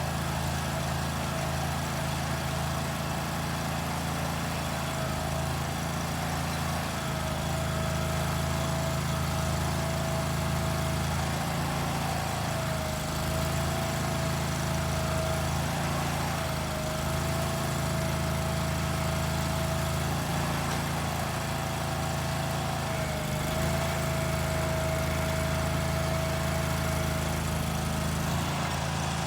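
An engine running steadily, with a thin whine that wavers slightly in pitch and dips a few times.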